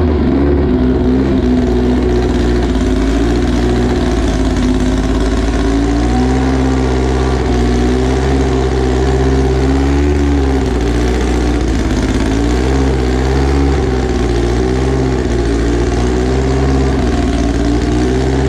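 Car engine idling loudly with small rises and dips in speed. It is running again after a failed exhaust valve was repaired.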